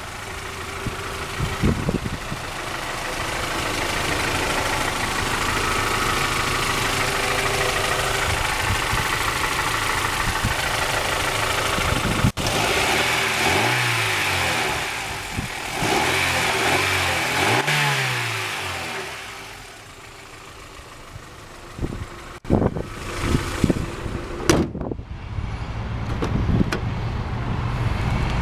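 1999 Honda Prelude's 2.2-litre DOHC VTEC four-cylinder running with the hood open, heard close up. Around the middle the engine pitch rises and falls twice, as in two brief revs. In the last few seconds there is a series of sharp knocks and thumps.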